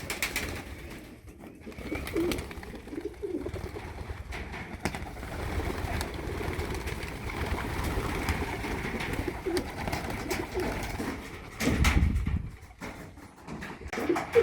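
Young racing pigeons cooing in a loft, over a steady rustling. There is a louder low rush of sound about twelve seconds in.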